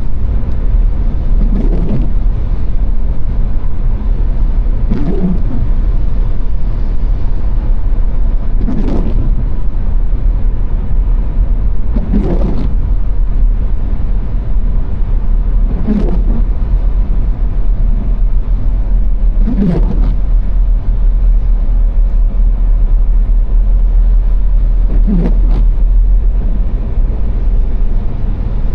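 A car driving at motorway speed: a steady low rumble of road and engine noise, with a brief louder swell about every three to four seconds.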